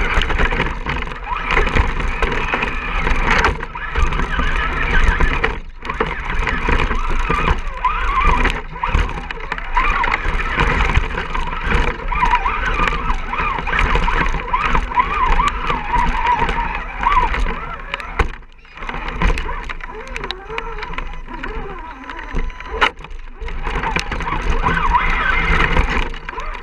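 RC rock crawler's electric motor and gear drive whining as it crawls, the pitch wavering up and down with the throttle, over a steady hiss of noise.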